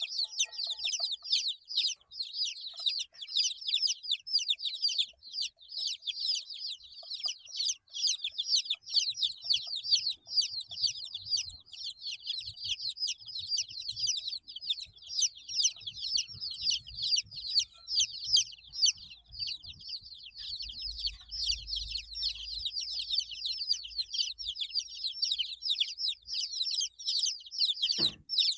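A brood of 8-day-old baby chickens cheeping continuously: many short, high, falling peeps overlapping without pause.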